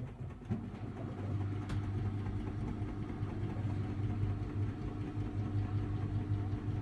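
Samsung Ecobubble washing machine's drum spinning on its digital inverter motor after the load has balanced: a steady, quiet low hum with a steady higher tone, growing louder over the first second or so as the spin builds.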